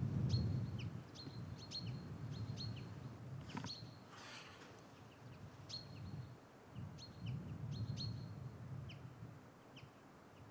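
A small bird calling repeatedly with short, sharp high chirps that drop in pitch, at irregular intervals, over a low rumble that is loudest at the start.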